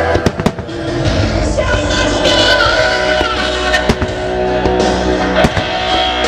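Musical-theatre music playing loudly over a sound system, cut through by several sharp bangs of fireworks shells bursting, a cluster just after the start and more spread through the rest.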